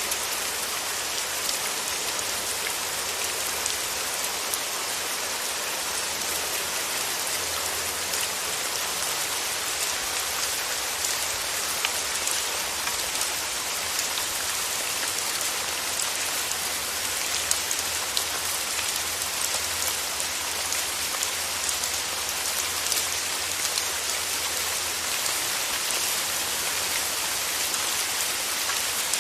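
Steady rain falling, an even hiss dotted with many separate drop hits, unchanging throughout.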